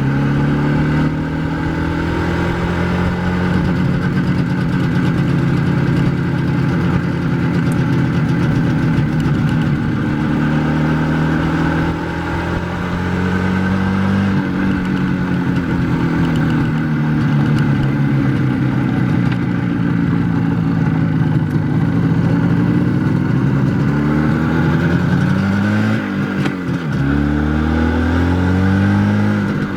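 IZh Jupiter-4 motorcycle's two-stroke twin-cylinder engine running under way, its pitch climbing and falling again and again as it pulls and is eased off through the gears. There are sharper drops in engine note at about twelve seconds in and near the end.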